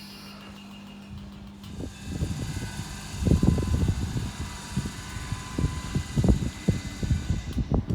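A train running through the station: its low rumble builds about two seconds in and stays loud and uneven, with faint steady tones above it.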